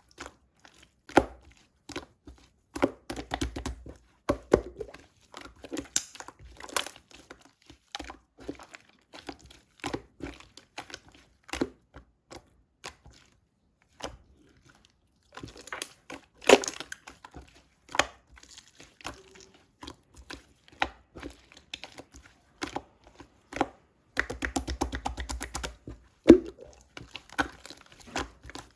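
Slime being squeezed, stretched and poked by hand, giving irregular sticky pops, clicks and crackles. There is a short lull about halfway through and a denser run of crackling near the end.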